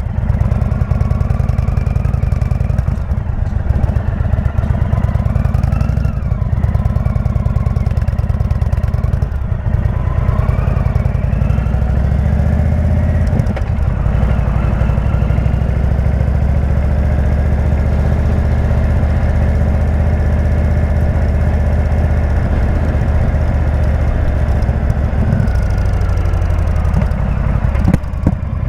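Indian V-twin motorcycle engine with a Jekill & Hyde exhaust running steadily under way. Its pitch shifts a little early on, then holds nearly constant.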